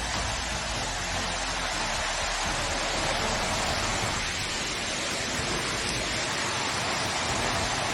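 Steady, even rush of water, with some low rumble under it that thins out after the first couple of seconds.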